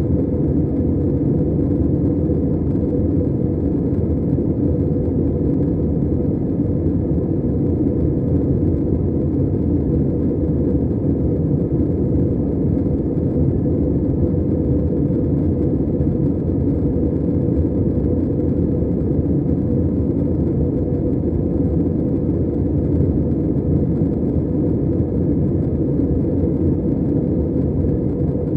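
Steady low rumble of an Airbus A320 airliner's cabin noise in flight, the jet engines and airflow heard from inside the cabin.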